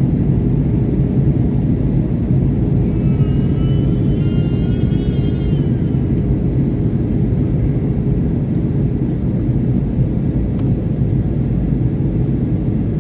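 Airbus A320 airliner in flight, heard inside the cabin: a steady, loud rumble of engines and airflow with a constant low hum.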